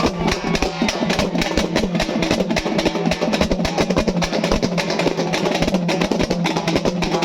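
Halgi frame drums beaten fast and continuously, with a held melodic tone underneath.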